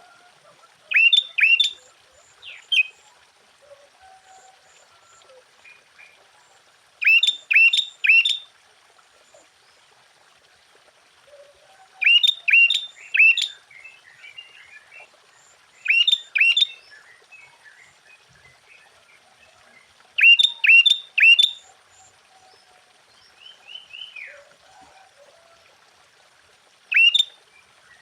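Sooty-headed bulbul singing. It gives short loud phrases of two to four sharp notes, repeated every four to six seconds, with fainter chirping in between.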